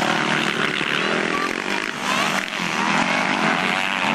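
Motocross motorcycle engines running and revving, several bikes at once, their pitches rising and falling.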